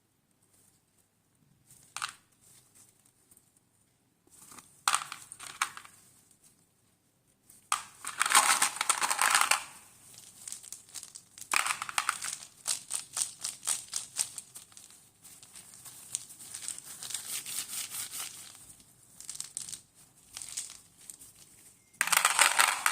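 Mothballs being crushed, crunching and crackling in irregular bursts of rapid clicks, loudest about eight seconds in and again near the end.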